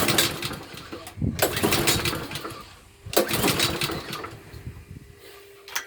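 Petrol lawnmower being pull-started: three pulls on the recoil starter about a second and a half apart, the engine turning over each time without catching. It has failed to start.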